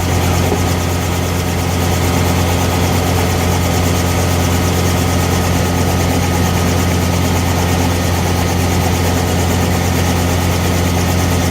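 Helicopter engine and rotor noise: a loud, steady low drone that holds an even level throughout.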